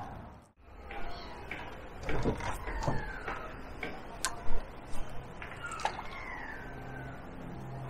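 Birds calling with short, falling whistled notes, over outdoor ambience. A few sharp clicks come about halfway through, and a low steady hum comes in later.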